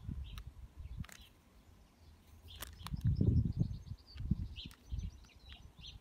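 Small birds chirping: scattered short, high chirps and a quick trill of rapidly repeated notes about three and a half seconds in. A low muffled rumble, the loudest sound, comes about three seconds in.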